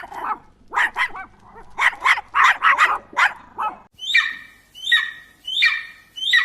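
A dog barking in quick clusters of short barks. About four seconds in, this gives way to a different animal call, repeated four times, each call falling in pitch.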